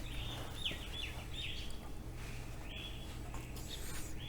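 A bird chirping repeatedly: about six short, high calls, each dropping in pitch at its end, over a steady low hum.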